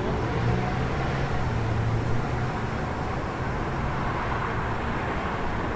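City street traffic: a steady wash of passing cars, with a low engine hum from a vehicle that fades out about two and a half seconds in.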